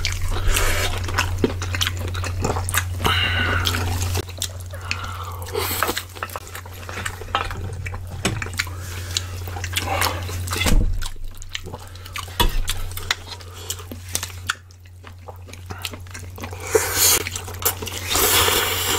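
Close-up eating sounds of two people chewing kimchi stew with pork belly and bibimbap: wet chewing, lip smacks and slurps, with many small clicks. A steady low hum lies underneath and fades about three-quarters of the way in.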